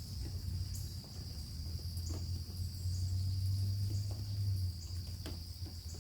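A steady, high-pitched insect chorus calling without pause, with a low hum underneath that is loudest from about three seconds in until it drops away near five seconds.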